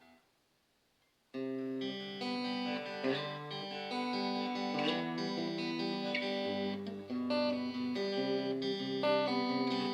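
Donner DST-100 Strat-style electric guitar played through its small 3-watt Donner practice amp on the clean setting: starting about a second in, picked notes and chords ring on one after another.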